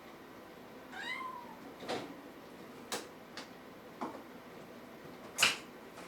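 A kitten mewing once, a short high call about a second in, followed by several short sharp clicks or taps, the loudest near the end.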